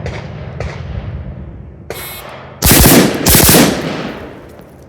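Close-range gunshots fired in two quick pairs, about half a second between the pairs, very loud and ringing out afterwards, as two targets each take two hits in a timed transition drill.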